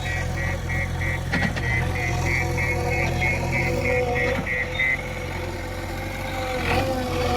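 Heavy machinery's diesel engine running steadily at idle, with a rapid electronic beeping, about three beeps a second, that stops about five seconds in.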